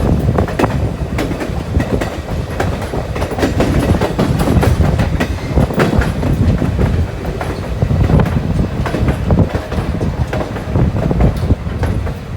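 Passenger railroad car in motion on a narrow-gauge railway: a steady rumble from the wheels on the track, with many irregular clicks and knocks from the rails and the car.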